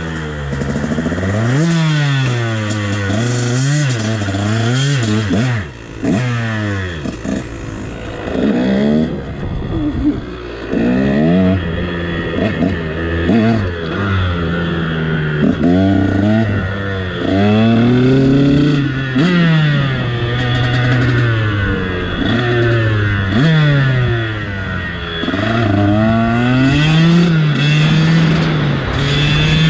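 KTM dirt bike engine being ridden hard, revving up and dropping back over and over as the throttle is worked, the pitch rising and falling every second or two.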